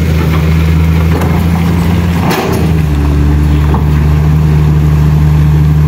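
A nearby engine running steadily at idle, a constant low hum, with a brief wobble in the hum a little past two seconds in.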